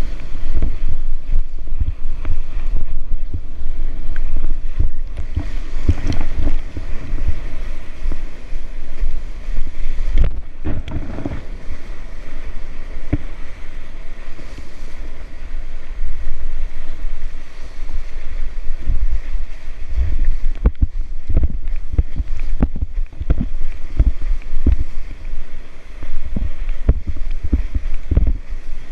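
Wind buffeting the microphone in irregular low thumps over a steady wash of surf and moving water.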